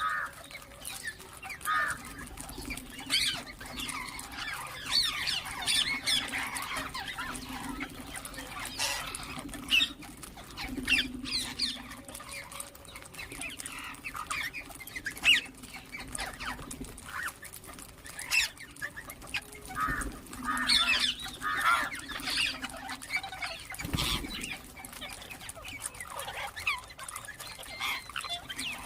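Ringneck parrots chirping and squawking in many short, rapid calls, over a steady low hum, with a single knock about 24 seconds in.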